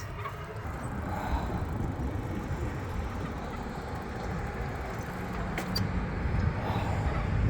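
Steady road traffic noise from cars on a city street, heard from a bicycle.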